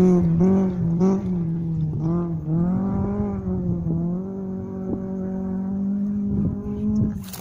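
Rally car's engine running hard on a dirt field, its note rising and falling with throttle and gear changes, then holding steadier for the last few seconds.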